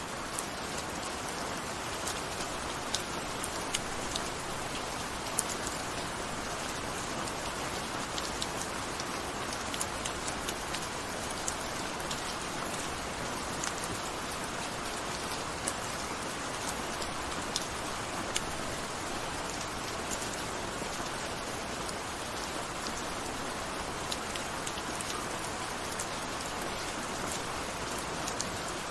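Steady gentle rain: an even hiss of rainfall with many separate drops ticking sharply on a surface.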